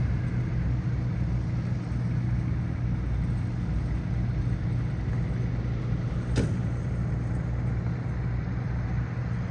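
Steady low engine rumble, with a single sharp click about six and a half seconds in.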